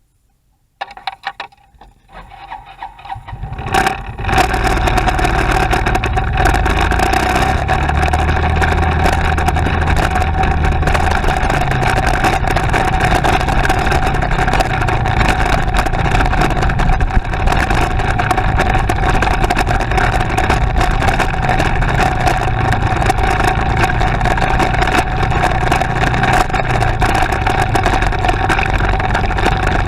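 A motorcycle engine running under way, with steady rushing noise and a constant whine. The sound comes up unevenly over the first four seconds, then holds level.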